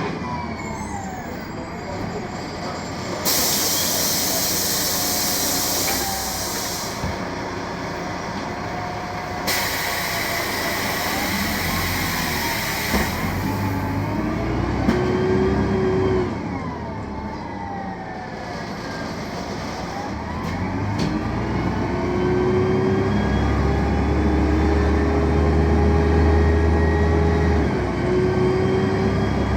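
BredaMenarini M 240 LU city bus's Mercedes-Benz OM 906 LA six-cylinder turbodiesel with Voith automatic gearbox, driving and pulling away, its pitch rising and dropping back several times as the gearbox shifts, then climbing steadily near the end. Two stretches of hissing, a few seconds each, come early on and around ten seconds in.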